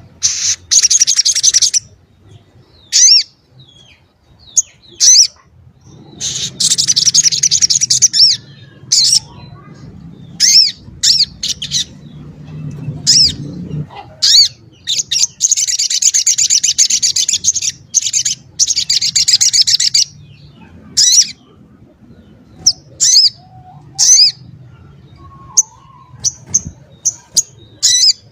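Little spiderhunter (sogok ontong) singing. It gives long bursts of rapid, high, chattering notes lasting from about two to five seconds, with short sharp chirps in between.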